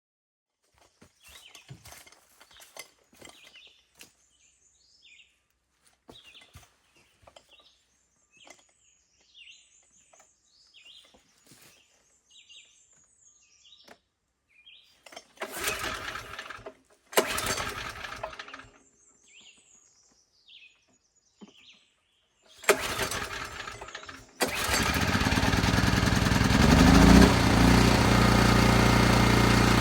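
Small engine being started: it fires briefly and dies twice, then catches on the third try about three-quarters of the way in and keeps running steadily. Birds chirp faintly before it starts.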